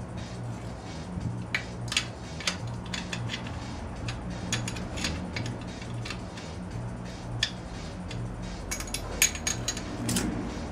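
Hand tools and a feeler gauge clicking and clinking against metal while the valve clearances on a Dnepr MT-10-36 engine are set. The clicks come irregularly, with a cluster of sharper ones near the end.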